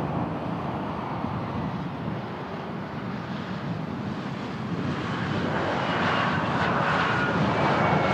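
Airplane engines growing louder as an aircraft approaches, with a steady whine coming in about five seconds in, over low wind rumble on the microphone.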